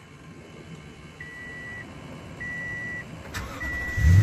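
2017 Toyota Tundra's V8 being started: a dashboard warning chime beeps steadily, about one beep a second, then a click a little over three seconds in, and the engine catches and runs, loudly, near the end.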